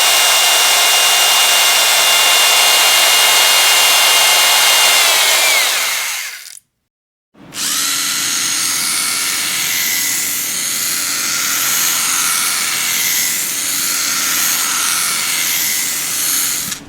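Electric power drill running with a steady high whine. It slows as it winds down and stops about six and a half seconds in, then after a short pause starts again and runs until it cuts off near the end.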